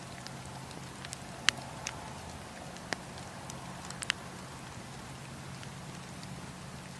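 Wood campfire crackling: a steady hiss of burning with scattered sharp pops, the loudest about one and a half seconds in and a quick pair around four seconds.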